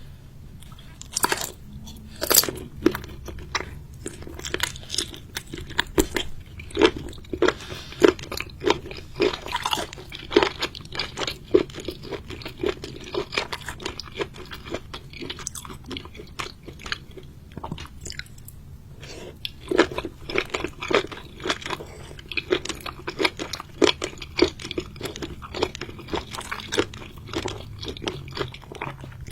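A person chewing and crunching seafood, with many sharp crunches one after another and a lull of a few seconds past the middle.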